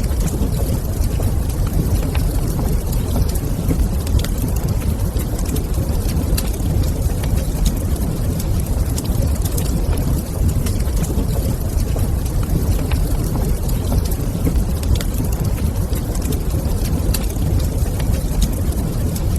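Wood fire crackling in a fireplace, with frequent small pops and clicks over a steady low rumble.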